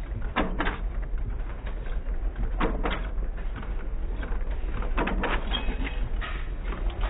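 A 4 hp Chase stationary gas engine running, firing in short clusters of two or three sharp exhaust beats about every two seconds with quieter gaps between, over a steady low rumble.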